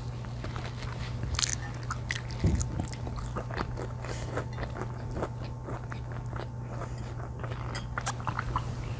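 Close-up eating sounds: biting and chewing pizza, with crisp crunches of the crust, over a steady low hum.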